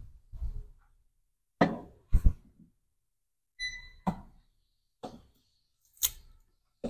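Irregular knocks and thuds of gym equipment being handled during a leg workout, with a brief metallic ring about three and a half seconds in.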